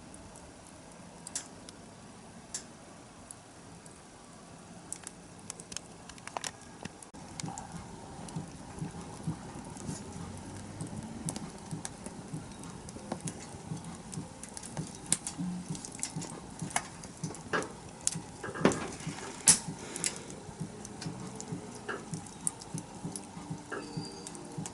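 Wood bonfire crackling and popping: scattered sharp pops at first, getting busier and louder after about seven seconds.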